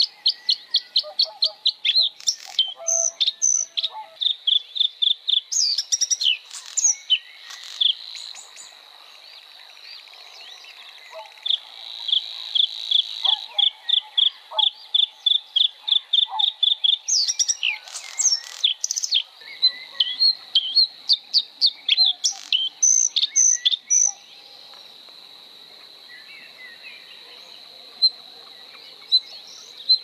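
Small birds chirping in rapid runs of short, high chirps, several a second. The chirping drops away for a few seconds about a third of the way in and again near the end.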